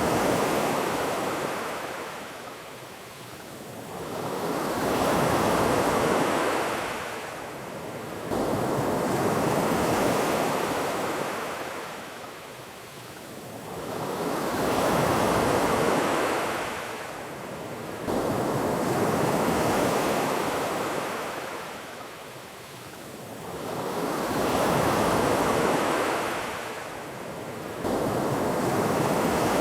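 Ocean surf: waves breaking and washing up the shore in slow swells, rising and falling about every five seconds.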